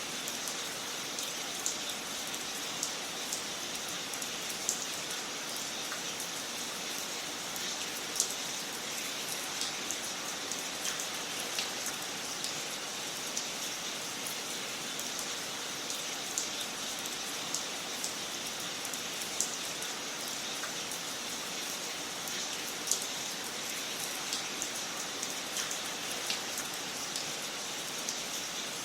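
Fire crackling in a fireplace: a steady soft hiss with irregular small pops and snaps, a couple of them sharper, about 8 and 23 seconds in.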